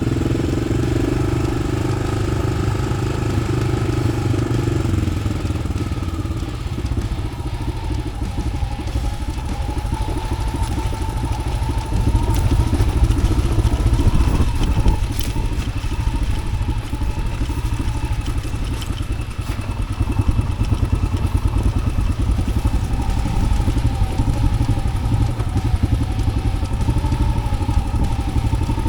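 Yamaha XT600's single-cylinder four-stroke engine running steadily through an Arrow aftermarket exhaust, swelling a little in loudness a couple of times.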